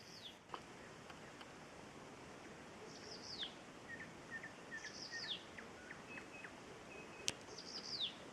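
An unidentified small bird repeating a high 'tsi-vi-chiv' phrase, a quick run of notes sliding down in pitch, four times, every two to three seconds. A nightingale sings more quietly in the background with short lower notes and brief level whistles.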